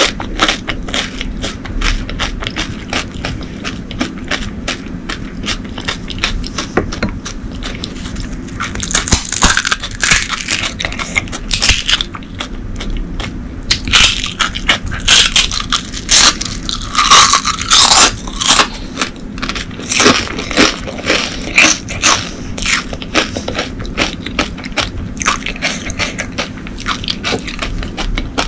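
Close-miked crunching and chewing of panipuri, the crisp fried puris cracking between the teeth, with louder bursts of crunching in the middle stretch as fresh puris are bitten.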